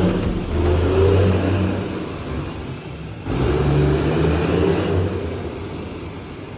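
Heavy truck engine pulling under power, heard in two stretches with an abrupt cut between them. Each stretch swells and then fades away.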